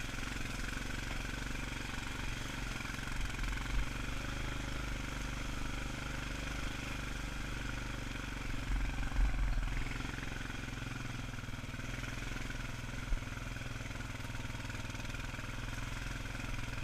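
ATV engine running steadily at low speed, pulling slowly up a steep dirt trail.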